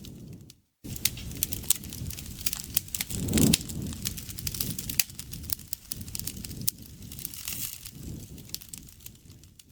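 Campfire burning, wood popping and crackling in quick, irregular clicks over a low rumble of the flames. The sound cuts out for a moment just under a second in and fades away near the end.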